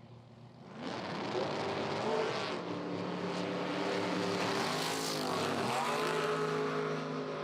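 Drag racing cars launching and running at full throttle, the engines climbing in pitch with sharp drops at gear changes about two and a half and nearly six seconds in.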